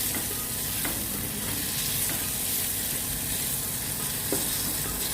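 Onions and green chillies sizzling steadily as they fry in ghee in a pressure cooker, being stirred, with a few light clicks of the stirring spoon against the pot.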